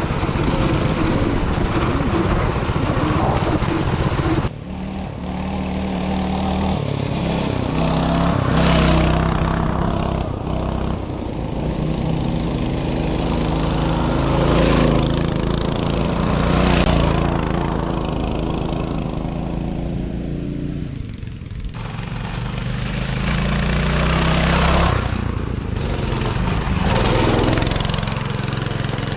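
Coleman mini bike's Predator 224 single-cylinder four-stroke engine running under load while riding, its note rising and falling with the throttle and changing abruptly a couple of times.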